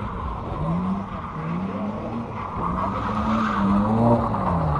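A car engine is revved hard, its pitch rising and falling several times, then held high for over a second before dropping near the end. Tyres squeal under it as they spin, loudest in the second half.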